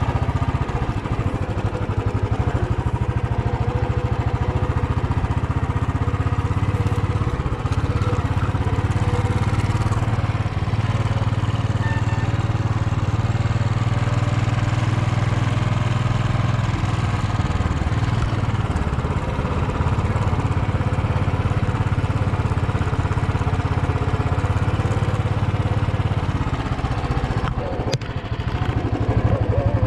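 Royal Enfield Bullet 350's single-cylinder engine running steadily under way.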